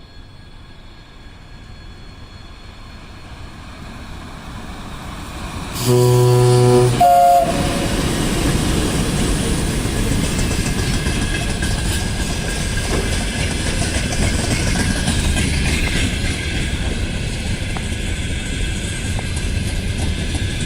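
VL10 electric locomotive approaching with a freight train, growing louder, then sounding its horn about six seconds in: a low blast of about a second followed by a short higher note. The train then passes close by with a loud steady rumble of wheels and wagons.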